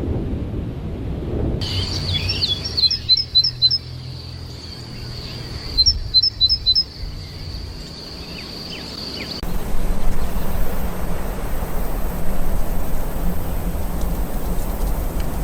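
Birds calling. Two quick runs of four or five short, high chirps, a few seconds apart, over a steady high-pitched whine. After about nine seconds it changes to an even outdoor background noise with only faint calls.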